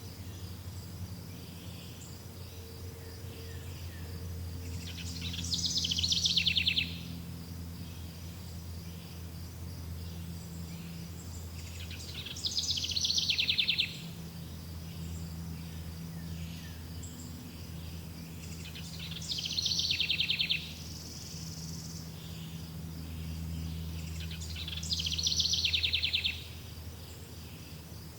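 A songbird singing four loud, rapid trilled phrases, each about a second and a half long and falling in pitch, repeated every six or seven seconds. Between and under them runs a steady high insect trill and a low hum of background noise.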